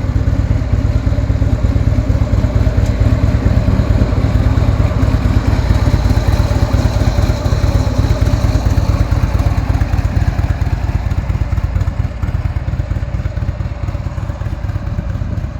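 Harley-Davidson motorcycle's V-twin engine running steadily with a rapid, lumpy exhaust pulse, easing off slightly near the end.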